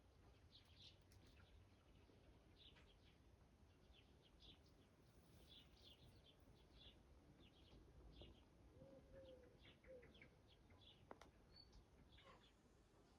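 Faint birdsong: small birds giving short high chirps every second or so, with a couple of lower, gliding calls about nine seconds in, over a faint low background hiss.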